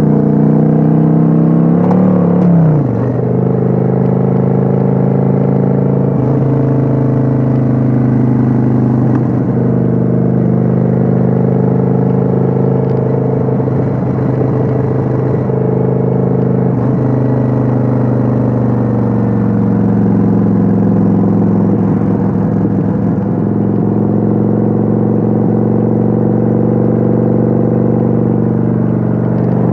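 Kawasaki Vulcan 900's V-twin engine running steadily under way, heard from on board the motorcycle. About two and a half seconds in the revs climb and then drop sharply, after which the engine note holds steady with small rises and falls.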